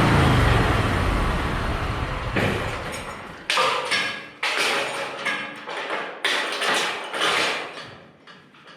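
Scag zero-turn mower engine running and fading away over the first couple of seconds. It is followed by a series of about six sudden noises, roughly one a second, each dying away.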